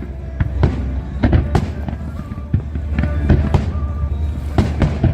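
Fireworks display: aerial shells bursting in a rapid, irregular run of bangs, about a dozen, over a steady low rumble, with music playing underneath.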